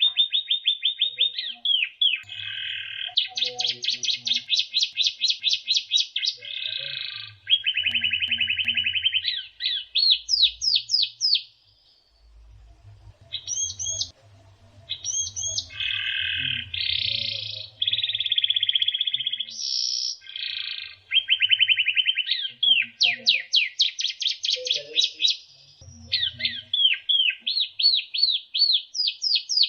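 White-rumped shama (murai batu) singing a fast, varied song of rapid trills and repeated whistled notes that change phrase every second or two, with a brief break near the middle.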